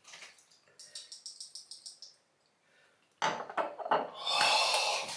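An aftershave splash bottle being handled: a quick run of light clicks, then a few knocks and hands rubbing near the end.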